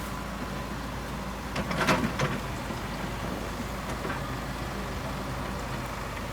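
Heavy diesel engine of construction machinery running steadily, with a brief loud clatter about two seconds in and a fainter one about four seconds in.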